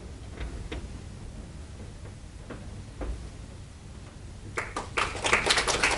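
Hall falls quiet, with a few faint clicks, then a crowd starts applauding about three quarters of the way in.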